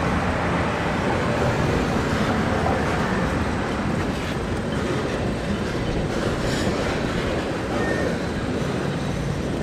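Norfolk Southern mixed freight train's cars rolling past, a steady rumble of steel wheels on the rails.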